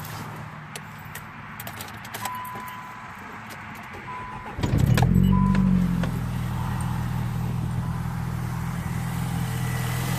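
Keys clicking and a few short electronic chime beeps, then a Nissan Sentra SE-R Spec V's four-cylinder engine starts about four and a half seconds in and settles into a steady idle.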